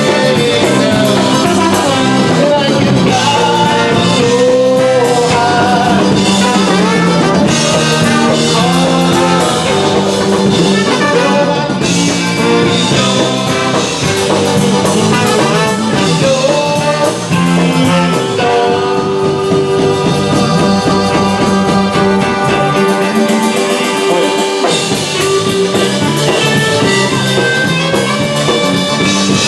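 Polka band playing a song, with drum kit, guitar and brass and singing.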